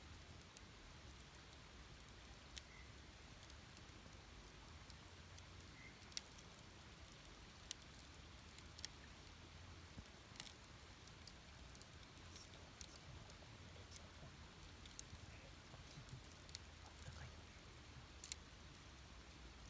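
Campfire burning with faint, sparse crackles: irregular small pops and snaps of the burning wood, about one or two a second, over a low steady rumble.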